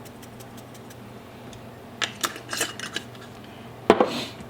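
Kitchen handling sounds as seasoning goes into a crock pot: a few light clinks and scrapes of a container or utensil about two seconds in, then a sharp knock near the end.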